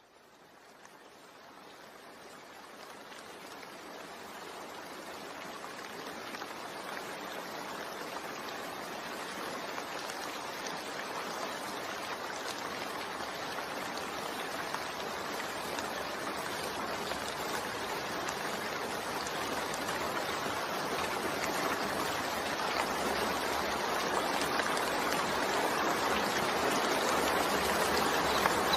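Heavy rain falling steadily as an even hiss of water, growing gradually louder throughout.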